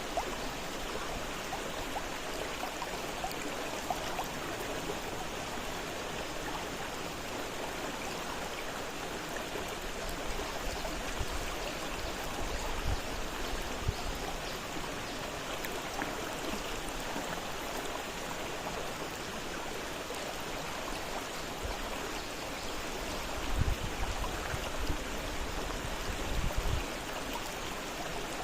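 Fast-flowing river water rushing steadily, an even noisy wash. A few brief low bumps come about halfway and again near the end.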